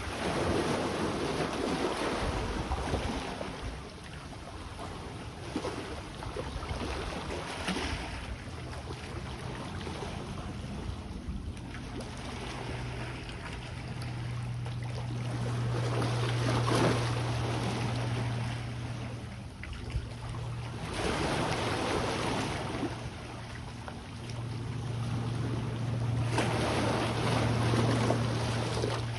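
Sea waves washing in, swelling and easing every few seconds. About halfway through, a steady low hum joins them and comes and goes.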